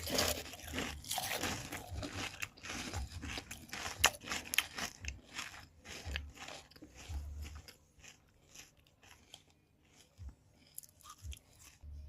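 Takis rolled tortilla chips being bitten and chewed: a quick run of crisp crunches that thins to scattered crunches over the last few seconds.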